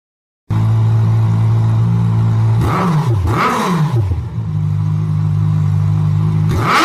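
Sport motorcycle engine idling, its throttle blipped twice about two and a half seconds in so the revs rise and fall, then settling back to idle before another rev begins near the end.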